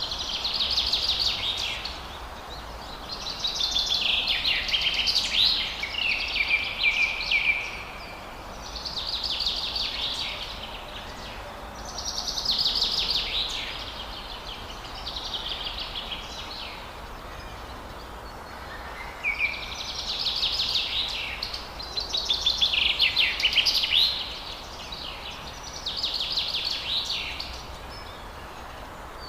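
Forest birds singing: short phrases of fast, chattering notes, each a second or two long, repeated every few seconds over a steady background hiss.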